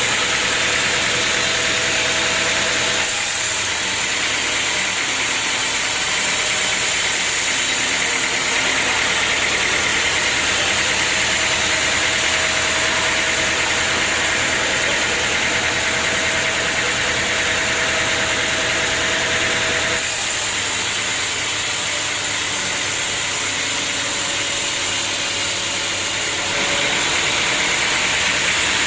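Sawmill machinery running steadily, a loud engine-driven mechanical drone and hiss. Its character shifts abruptly a few times.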